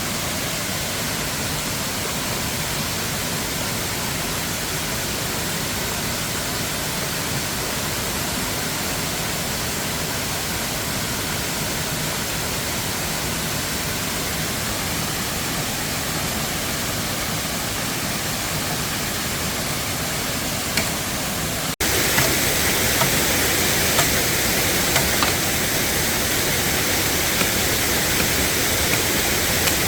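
Steady rush of a waterfall. About 22 seconds in it cuts abruptly to a louder, brighter rush with a few faint clicks.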